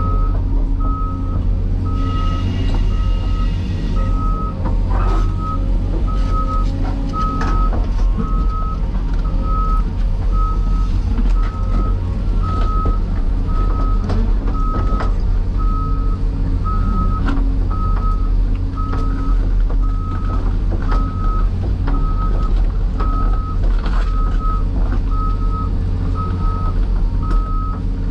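Heavy diesel machinery running steadily under a backup alarm beeping about once a second, with scattered knocks and clanks of work and a brief higher ringing tone a couple of seconds in.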